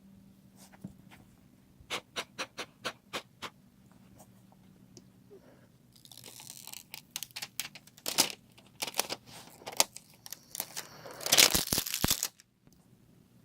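Six quick, evenly spaced clicks, then a run of crackling and rustling as plastic protective film and adhesive-tape backing are handled and peeled, loudest near the end and cutting off suddenly.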